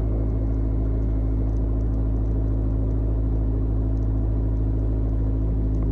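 Mooney M20J's four-cylinder Lycoming engine idling steadily on the ground, a low even hum with a faint thin tone that stops about a second and a half in.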